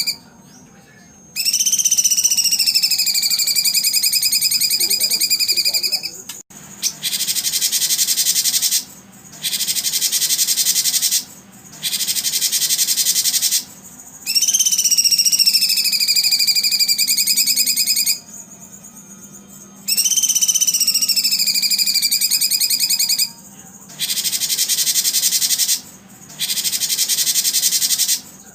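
Loud, high-pitched animal calls from a songbird-conditioning recording: long whistled notes, each starting with a rise and dip and then held for several seconds, alternate with harsh buzzing trills of about two seconds, separated by short gaps.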